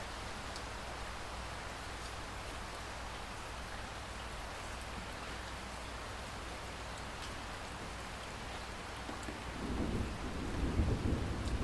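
Steady rain falling, with a low rumble of distant thunder swelling up near the end.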